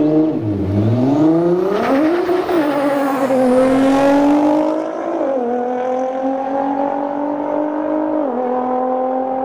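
Nissan GT-R's twin-turbo V6 revved, then accelerating away, its note climbing steadily and dropping at two upshifts about five and eight seconds in.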